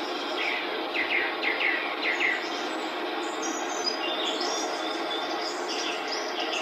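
Small birds chirping: a quick run of about five short descending chirps in the first two seconds, then scattered higher chirps, over a steady background hiss.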